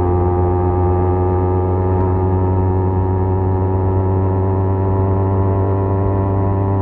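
Kawasaki Z250 parallel-twin engine cruising at steady revs, its exhaust note through an aftermarket SeaPro muffler holding one even pitch.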